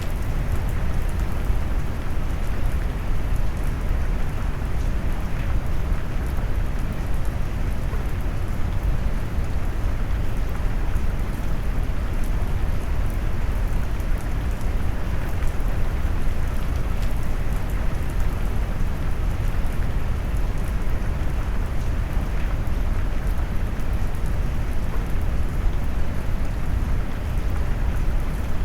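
Rain mixed with brown noise: a steady, deep, even rushing weighted heavily toward the low end, with faint ticks of drops on top.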